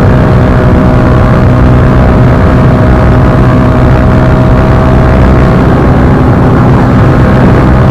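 Bajaj Pulsar NS160's single-cylinder engine running through an Akrapovic slip-on exhaust at steady revs, a loud, even exhaust note with no pops.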